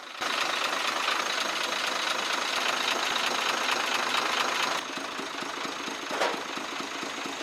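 Truck diesel engine running with a fast, even ticking knock, one of the abnormal noises ('tik tik' and 'chuk chuk') under diagnosis. It drops somewhat in loudness a little under five seconds in.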